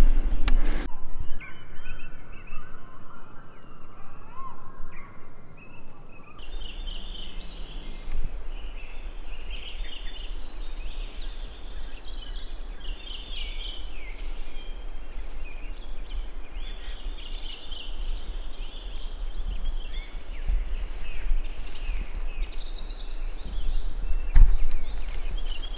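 Small birds chirping and calling, many short high chirps, over a steady low rumble of wind and handling noise on the microphone; a single thump near the end.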